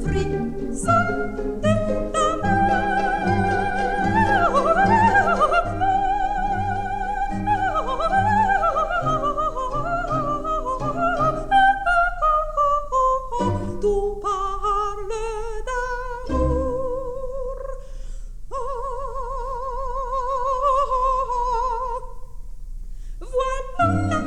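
Coloratura soprano singing an ornate operatic passage, with quick runs and leaps, over light orchestral accompaniment. Past the middle the accompaniment thins out and she holds long high notes with vibrato. The orchestra comes back in near the end.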